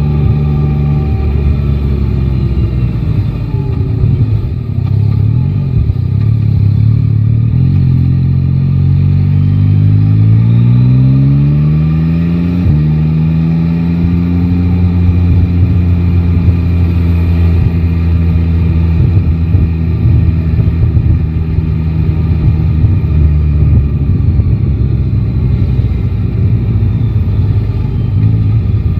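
Yamaha Tracer 9 GT's three-cylinder engine heard from the rider's seat in city traffic. It runs steadily, then rises in pitch as the bike accelerates, drops sharply at an upshift about halfway through, and then settles into steady cruising.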